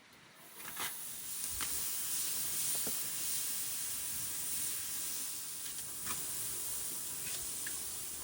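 Food sizzling on a hot barbecue grill: a steady hiss that starts about half a second in, with scattered crackles and pops.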